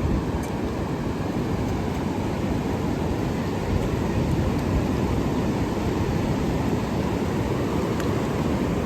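Ocean surf with wind buffeting the microphone: a steady, deep rushing noise with no break.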